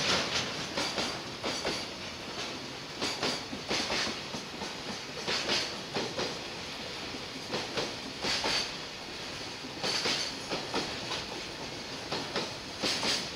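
Freight train's container flatcars passing at speed, with steady rolling noise and sharp clattering of wheels on the track in repeated clusters, roughly one every second or so.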